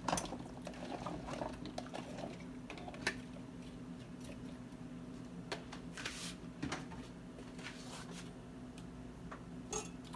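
Potatoes dropped into a frying pan with a clatter at the start, followed by occasional sharp clinks of a utensil against the pan over a steady low hum.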